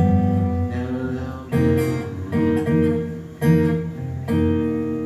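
Acoustic guitar playing the closing chords of a blues tune, about five chords struck and each left to ring.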